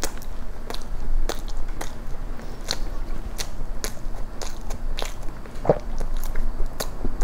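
Person chewing a mouthful of moist chocolate cream cake: soft wet mouth clicks and smacks, about one or two a second, one a little fuller near the end.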